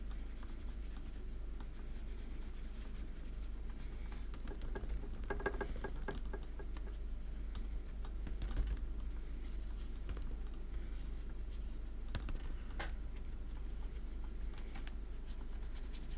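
Faint scattered light taps, clicks and scratching of small handling noises, with a denser run of ticks and a brief squeak about five seconds in and a couple of sharper clicks near the end, over a steady low electrical hum.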